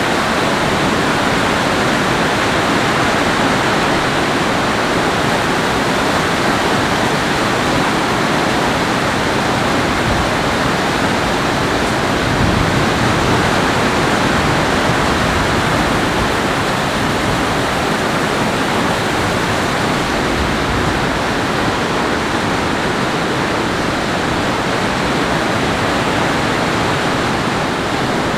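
Steady, loud rush of water with no breaks.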